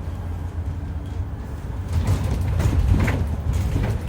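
Scania N230UD double-decker bus with its 9.3-litre Scania DC9 diesel running, heard on board: a steady heavy low rumble that grows louder and rougher about halfway through, with rattling from the body.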